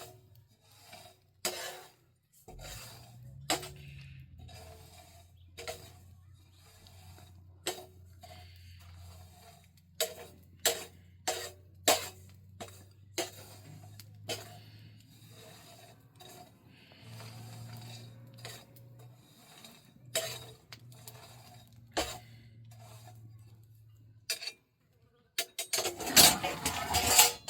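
Cooking utensils knocking and clinking against cookware: irregular sharp knocks, a few a second, with a louder noisy rush near the end.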